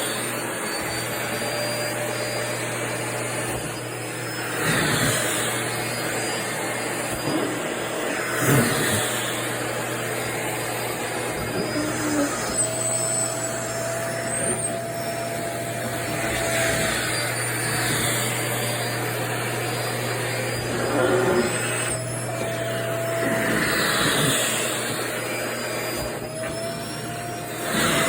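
Vacuum cleaner running steadily as skirt fabric is sucked against its nozzle, with a rustling surge every few seconds and a faint shift in the motor's tone.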